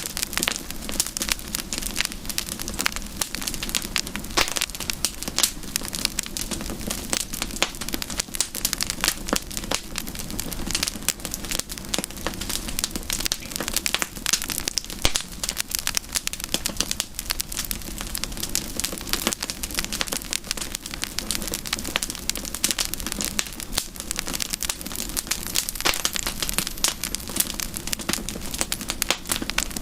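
Campfire burning with dense, irregular crackling and popping over a steady low hiss of flames.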